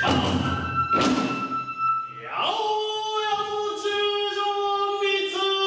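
Kagura music: two sharp drum and hand-cymbal strikes about a second apart with a thin held flute note, then from about two and a half seconds a long held sung note.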